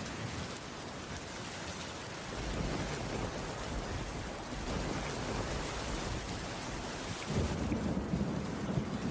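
Steady rain falling on a wooden roof, a continuous hiss of drops. A low rumble swells under it about two seconds in and again near the end.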